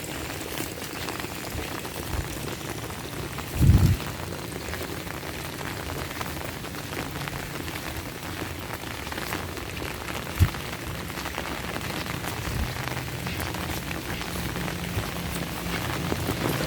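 Heavy rain falling steadily, with a loud low thump just under four seconds in and a sharp click around the middle. A low steady hum comes in during the last few seconds.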